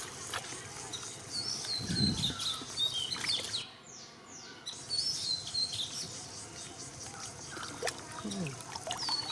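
A songbird repeating short chirping phrases every couple of seconds, over light splashing and sloshing of muddy water as hands work a fishing net.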